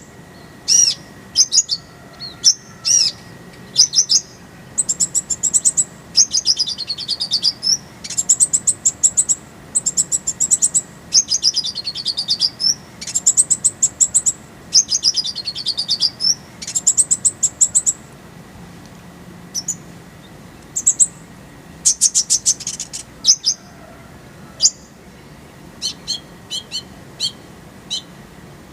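Purple-throated sunbird (kolibri ninja) singing: high-pitched chirps, fast rattling trills and rapid strings of sharp notes, with several dipping-and-rising sweeping phrases. The song thins to scattered single chirps after about eighteen seconds.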